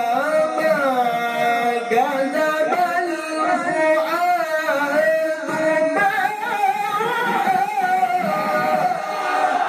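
Male qari's melodic Quran recitation: long, ornamented phrases held and bent through many turns of pitch. Near the end, audience voices begin to rise in acclaim.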